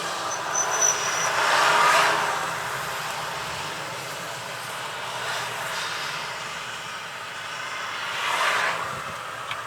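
Car driving on the road: steady tyre and wind noise, swelling twice, about two seconds in and again near the end.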